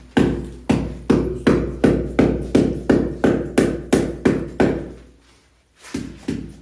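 Repeated hammer blows at an even pace of about three a second, each with a short ring. They pause about five seconds in and start again near the end.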